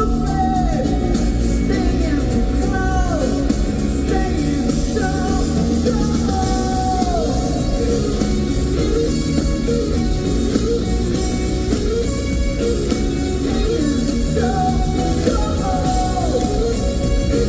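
Live band music from the audience: a funky rock song with singing over electric guitar, with short falling slides in the melody line.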